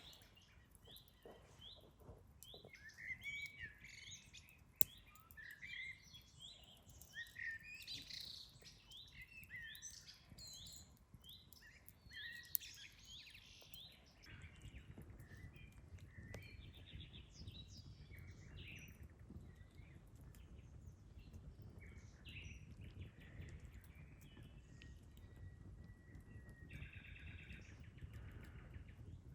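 Songbirds chirping and singing, many short calls and trills overlapping, busiest in the first half. Two sharp cracks from the campfire stand out, one about five seconds in and one about twelve seconds in.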